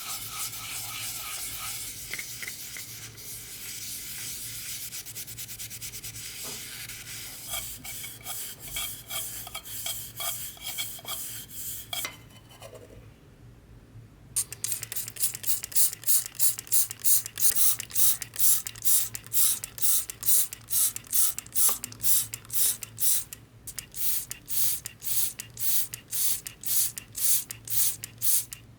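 Hand scrubbing or sanding on the corroded surface of an antique brass tea box. It starts as a continuous rubbing, turns into separate strokes, pauses briefly, then resumes as loud, even back-and-forth strokes about two a second.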